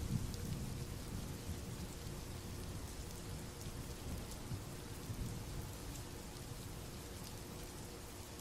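Steady rain, with faint drop ticks, over a low thunder rumble that fades away during the first few seconds.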